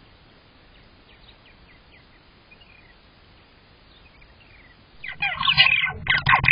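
Purple martin calling right beside the nest-box camera's microphone: a loud, rapid run of calls starts about five seconds in, after a few faint bird chirps.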